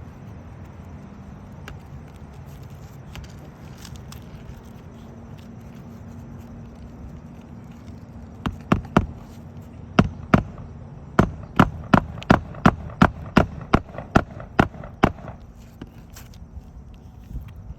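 A hammer striking repeatedly in a quick run of about seventeen blows, roughly two to three a second, starting about halfway through, over a steady low hum.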